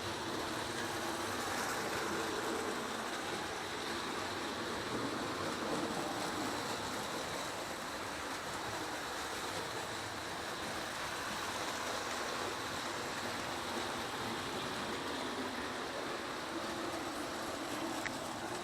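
Several model trains running at once on their test-board loops, including prewar and early postwar Lionel O gauge, American Flyer S, HO and N scale: a steady running noise of motors and wheels on track. A light click comes near the end.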